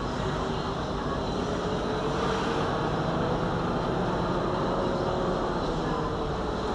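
Steady road and engine noise of a moving car, picked up by a dashcam, with a faint engine hum drifting slowly in pitch.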